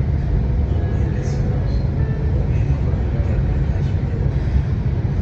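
Lagos Blue Line train running along the track: a steady low rumble, heard from inside the carriage.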